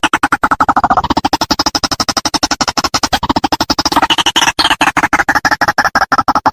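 White-breasted waterhen call from a bird-lure recording: a fast, unbroken run of repeated notes, about ten a second, whose pitch shifts partway through.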